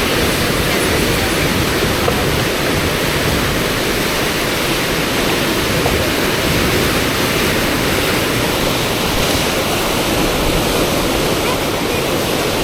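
Steady, loud rush of white water from the Eisbach's standing river wave, with no breaks.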